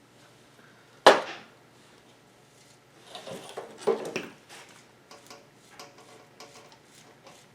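Metal hub parts and hand tools being handled: one sharp metallic knock about a second in, a run of clattering around three to four seconds, then light ticking.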